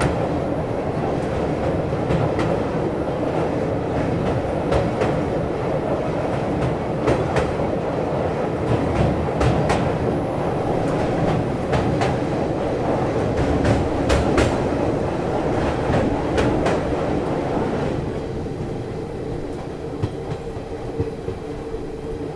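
Passenger train's coaches rumbling across a steel truss bridge, heard from an open coach doorway, with many sharp wheel clicks. Near the end the sound drops and smooths out as the train comes off the bridge onto plain track.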